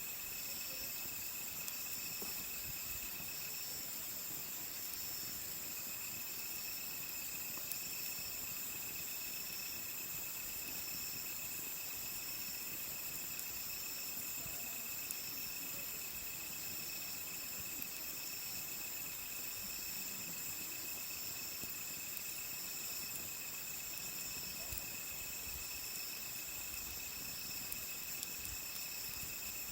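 Night insects chirring steadily, several kinds at once at different high pitches, one of them pulsing in an even rhythm under less than a second per pulse. A few faint crackles from the wood fire come through now and then.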